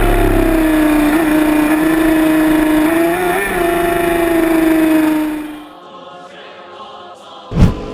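Motorcycle engine running hard at high revs, a steady high drone that wavers slightly, then drops away abruptly about five and a half seconds in. A single brief, very loud burst follows near the end.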